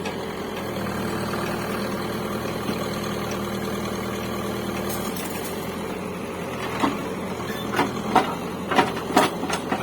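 Backhoe loader's diesel engine running steadily, with a run of about six sharp knocks in the last three seconds.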